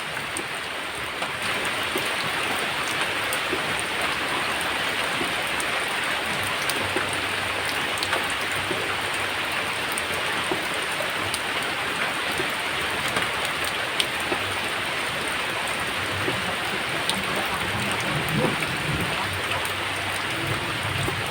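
Rain falling steadily: a dense, even hiss with scattered sharp clicks of individual drops. It grows slightly louder about a second in.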